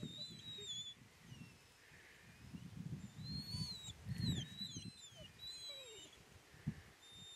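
Small birds calling in thin, high whistles that rise and fall, several overlapping about halfway through, over low irregular rumbling bumps.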